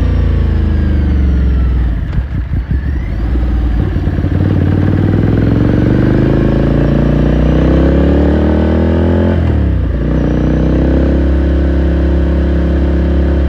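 2018 Ducati Scrambler Sixty2's 399 cc air-cooled L-twin under way: the engine note falls as the bike slows and goes uneven and quieter for a moment about two seconds in. It then climbs steadily under acceleration, drops suddenly at a gear change near ten seconds, and pulls up again.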